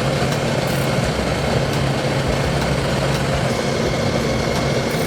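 Heavy engine of a grapple excavator running steadily, a low even hum.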